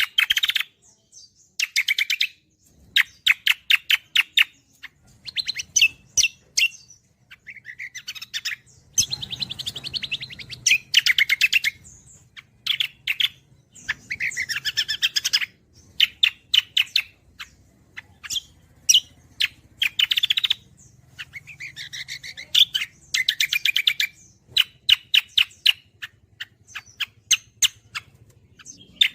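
A cucak kombo songbird singing in full voice. It gives bursts of very rapid, chattering repeated notes, each phrase lasting about a second, with short pauses between them, over a faint low hum.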